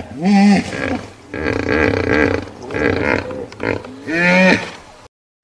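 Hippopotamus calling: loud, deep pitched calls that rise and fall, one about half a second in and a stronger one about four seconds in, with lower grunting sounds between them. The sound cuts off just before the end.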